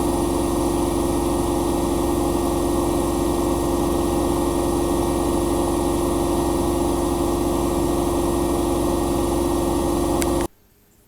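Bosch Maxx Advantage WFCX2440 slimline washing machine running with a steady loud hum and a whine held at one pitch. It cuts off abruptly about ten seconds in, leaving near silence with a faint click.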